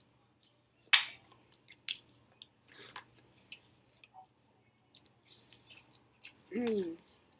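Close-up mouth sounds of a person chewing a mouthful of food: soft wet smacks and sharp clicks, the loudest about a second in. A short vocal sound with falling pitch comes near the end.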